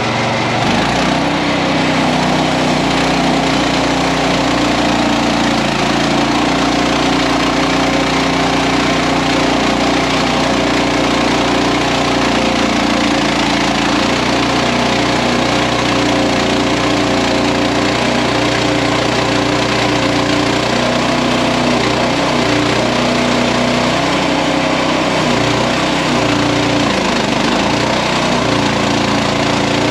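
Engine of a portable bandsaw sawmill starting up right at the beginning, then running steadily, with its pitch shifting slightly now and then.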